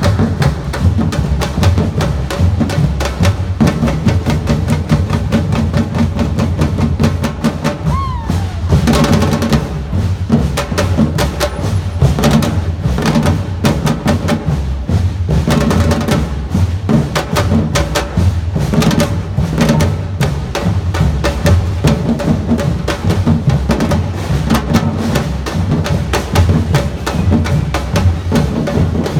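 Samba-reggae drum band playing: deep bass drums under dense, fast, sharp strikes in a steady driving rhythm.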